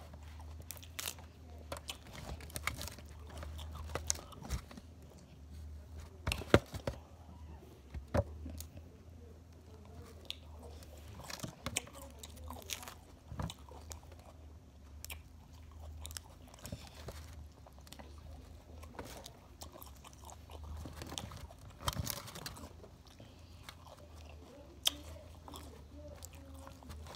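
Close-up chewing and crunching of crisp raw lettuce leaves: irregular crunches and mouth sounds, with a steady low hum underneath.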